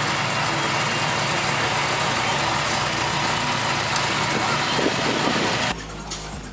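A vehicle engine running at idle under a loud, even rush of noise; the sound drops off suddenly near the end.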